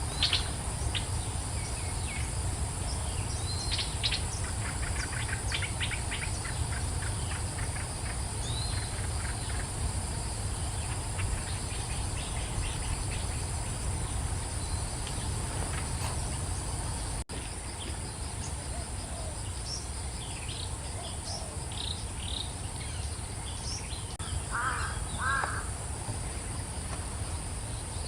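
Birds chirping and calling over a steady high-pitched insect drone, with a few louder, lower bird calls about three quarters of the way through.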